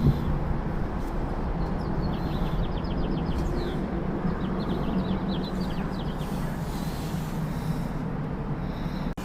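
Outdoor background: a steady low rumble with small birds chirping in quick series through the middle.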